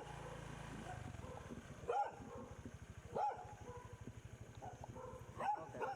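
A dog barking in short, rising-and-falling yelps, about four or five times, over the low steady running of a motorbike engine.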